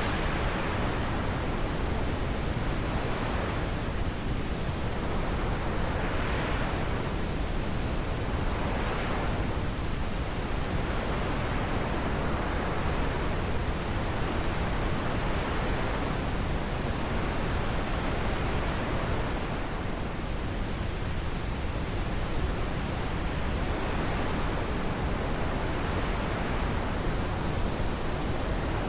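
Wind blowing as a steady rushing noise, its hiss swelling and easing in gusts every few seconds.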